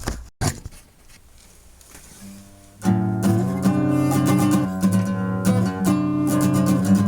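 Guitar strumming chords that ring on, starting about three seconds in after a short, quiet stretch of faint handling noise.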